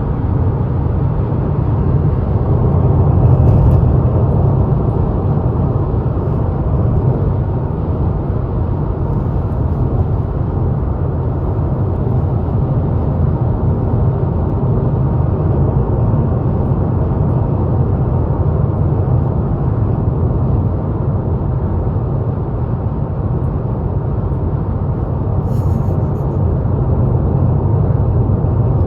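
Steady road noise of a car driving at highway speed: a low rumble of tyres and engine.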